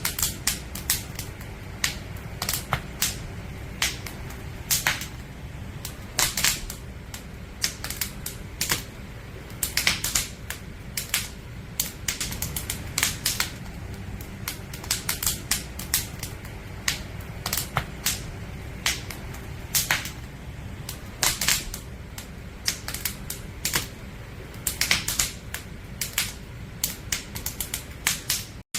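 Wood campfire crackling: irregular sharp snaps and pops, sometimes several a second, over a low steady rumble of the burning fire. The sound cuts out for an instant just before the end.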